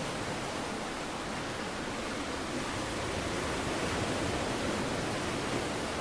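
Steady, even rushing noise with no separate events, spread from low to high pitches.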